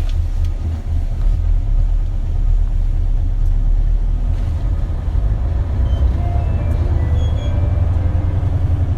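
Isuzu Erga city bus (KL-LV280L1) heard from inside while driving: a deep, steady diesel engine rumble. In the second half a faint whine rises in pitch.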